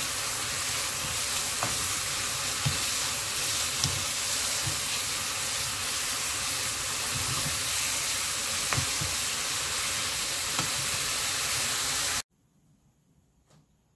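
Pork and kimchi sizzling as they stir-fry in a pan, with a wooden spatula knocking and scraping against the pan now and then. The sizzle cuts off suddenly near the end.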